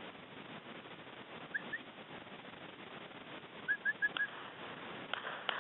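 A bird's short rising chirp calls: two about one and a half seconds in, then a quick run of four near the four-second mark. A few sharp clicks follow near the end, over a steady outdoor hiss.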